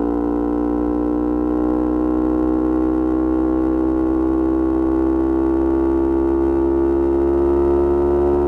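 Yamaha R25 parallel-twin four-stroke engine through a Kea Speed aftermarket exhaust, held at high revs under load, its pitch climbing slowly and steadily as the bike gathers speed in one gear.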